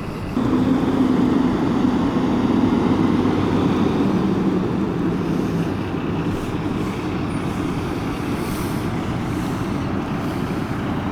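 A large vehicle's engine running, a steady low hum that gets louder about half a second in.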